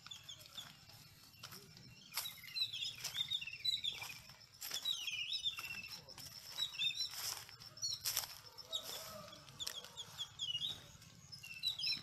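Birds chirping in quick, repeated short calls, with scattered sharp clicks and knocks in between.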